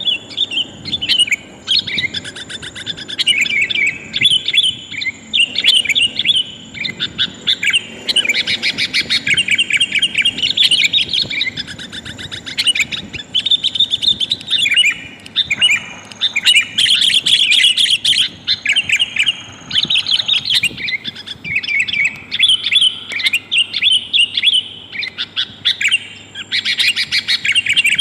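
Sooty-headed bulbul chirping and calling without pause in quick bursts of short notes, the kind of call used as a lure to draw wild bulbuls down, presented as a female calling a male.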